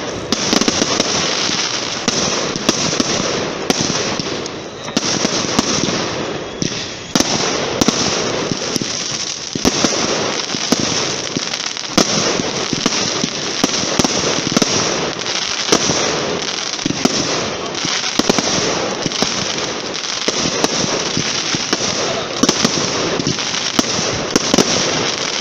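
Fireworks display going off continuously: a dense crackling hiss with many sharp bangs at irregular intervals throughout.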